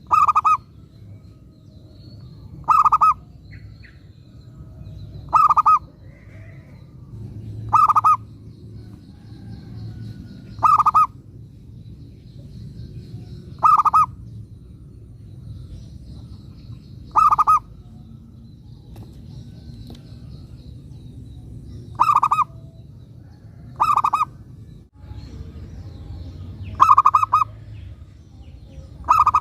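Zebra dove (perkutut) cooing: a short rolling phrase repeated about every two to three seconds, eleven times, over a faint low background rumble.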